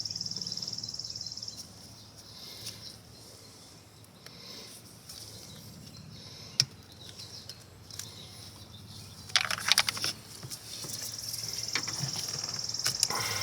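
Faint clicks and scraping of a pick tool working at a plastic coil-harness connector clip, with a short clattering rattle about two-thirds of the way through. A steady high-pitched insect drone fades out early and returns near the end.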